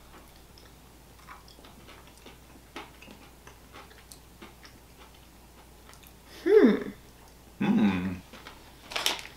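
Faint crunching and chewing of chocolate-covered wafer Kit Kat Bites, a few soft scattered clicks, then short wordless hums of approval from the eaters about six and a half and eight seconds in.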